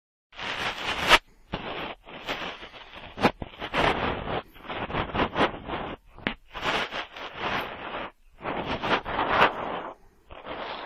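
Cotton swab swirling and scraping in the ear of a binaural microphone: repeated close rubbing strokes of about a second each, with brief pauses between them and a few sharp clicks.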